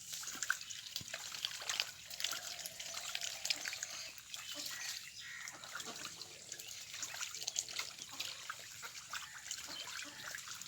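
Ducks dabbling and paddling in pond water: a continuous trickling and dripping with many small splashes.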